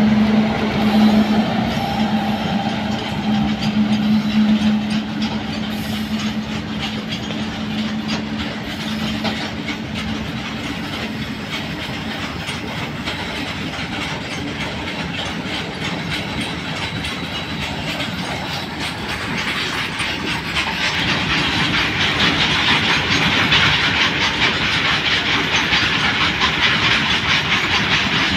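A freight train of covered open wagons rolling past behind twin WAG-9 electric locomotives. A steady hum from the locomotives fades over the first few seconds and gives way to the rumble and clickety-clack of the wagon wheels on the rails, which grows louder about two-thirds of the way through.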